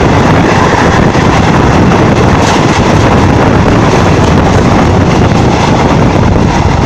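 Passenger train running at speed, its wheels rumbling on the rails, with heavy wind buffeting the microphone held out of the carriage window. Steady and loud throughout.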